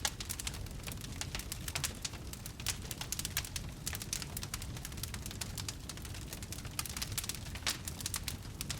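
Wood fire in a fireplace crackling: dense, irregular sharp pops and snaps over a steady low rumble of burning.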